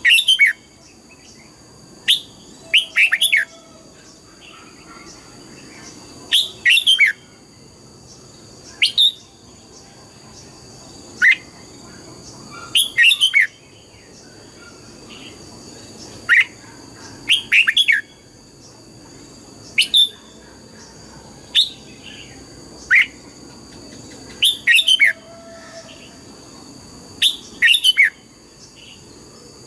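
Red-whiskered bulbul singing short, clear phrases of two to four quick notes, repeated about every two seconds. A faint steady high-pitched whine runs underneath.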